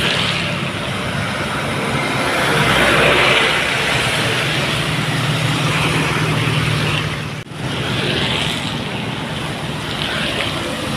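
Loaded dump truck driving past, its engine humming under broad road noise that swells to its loudest about three seconds in. The sound drops out for an instant about two-thirds of the way through.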